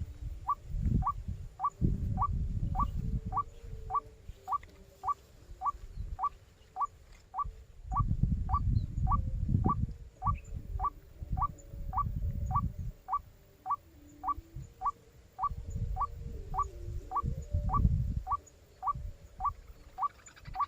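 White-breasted waterhen call: one short rising note repeated steadily, about twice a second. Low rumbling noise comes and goes in gusts underneath.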